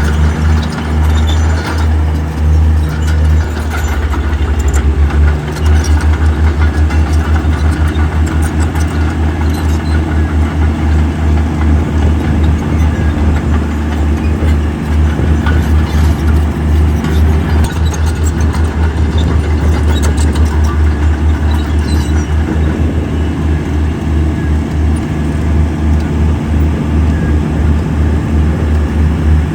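Heavy diesel engine of earthmoving machinery running steadily under load, a deep, evenly pulsing low throb.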